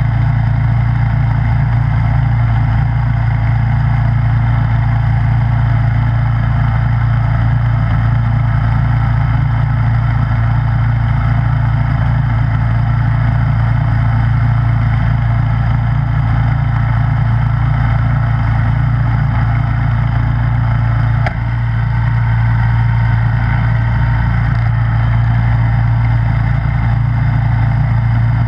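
Snowblower engine running steadily with an even low hum, broken once by a brief click about three-quarters of the way through.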